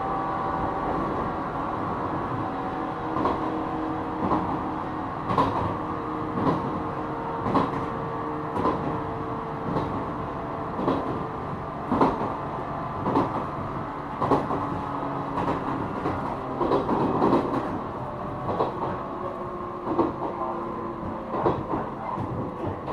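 A JR East 455-series EMU heard from inside a MoHa 455 motor car while running. Its MT54 traction motors and gearing give off a steady hum with several held tones, and the wheels click over rail joints about once a second.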